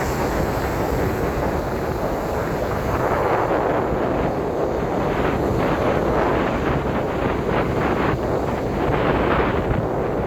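Strong storm wind buffeting the microphone, over heavy Mediterranean surf.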